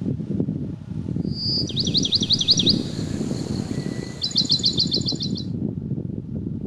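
Steady low wind noise through the forest, with a songbird singing from about a second in: a run of quick downward-sliding whistled notes, then after a short gap a fast high trill that stops a little past the middle.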